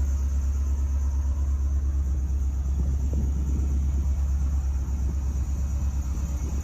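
1978 Ferrari 308 GTS's carbureted 2.9-litre quad-cam V8 idling steadily with an even low rumble through its ANSA four-exit exhaust. It is still warming up from a cold start with the choke partly out.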